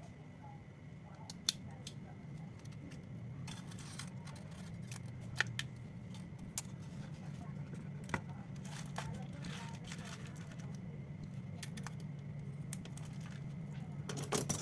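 Small clicks, taps and scraping of hand tools and parts being handled during a smartphone repair, a few sharp clicks standing out, over a steady low hum.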